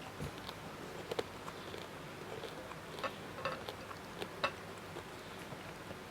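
Close-miked eating sounds: a person chewing, with scattered sharp mouth clicks and small crunches at an uneven pace.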